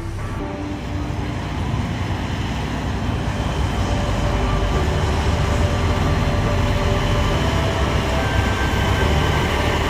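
Heavy vehicle engine running hard, a loud rumble that builds over the first few seconds and then holds steady.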